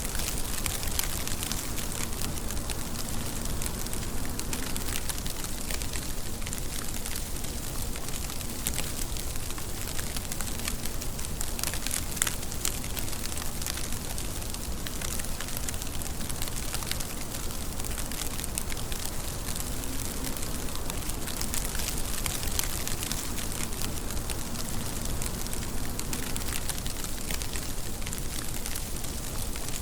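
Steady rain falling, a dense patter of many small drop ticks over an even hiss.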